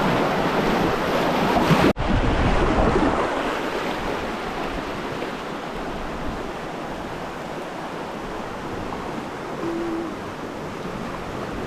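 Rushing river water running through rapids, a steady loud wash, with wind noise on the microphone. The sound cuts out for an instant about two seconds in, then carries on a little quieter.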